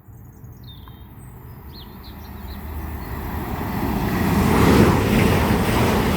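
CrossCountry Class 220 Voyager diesel multiple unit approaching and passing through the station at full line speed: a rush of wheel, engine and air noise growing louder over about five seconds and staying loud at the end.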